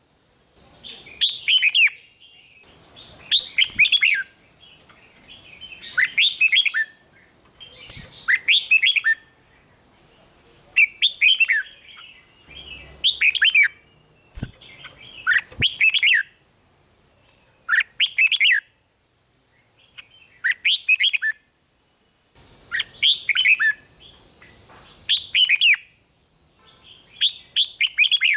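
Red-whiskered bulbul singing: short, quick whistled phrases repeated about every two seconds, with brief pauses, over a faint steady high-pitched tone.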